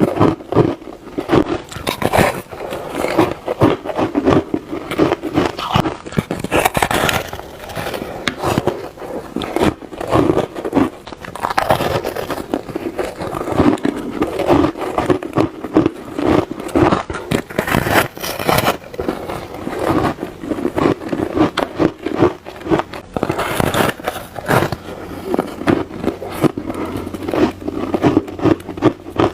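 Close-up biting and chewing of ice, a dense run of crunches and crackles one after another.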